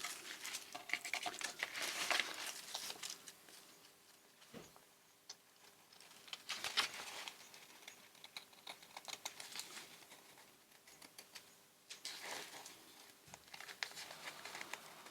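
Paper rustling and crinkling in irregular bursts with small clicks, as glue-damp paper and scraps are handled on a craft table.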